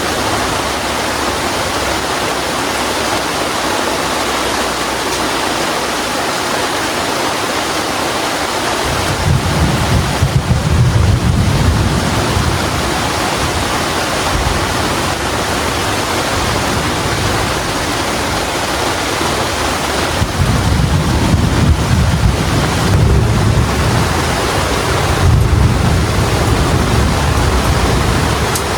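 Heavy rain falling steadily. Deep low rumbles come in three times: about nine seconds in, around twenty seconds, and again near twenty-five seconds.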